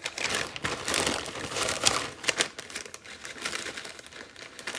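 Crinkling and rustling of packaging as a drinking straw is taken out, with scattered light clicks and knocks.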